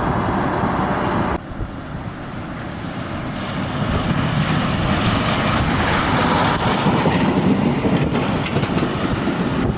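Steady rushing noise of high wind and road traffic in a blizzard. It drops sharply about a second and a half in, then builds up again.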